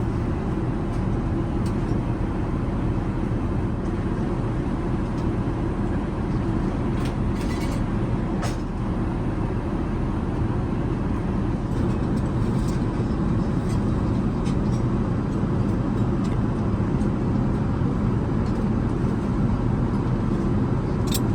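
Steady low cabin noise of an Airbus A380, engine and airflow heard from inside the cabin, with a few faint clicks.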